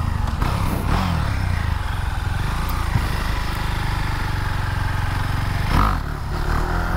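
Husqvarna Svartpilen 701's 693cc single-cylinder engine pulling hard on the throttle to lift the front wheel in a wheelie. There is a brief break in the engine note about six seconds in.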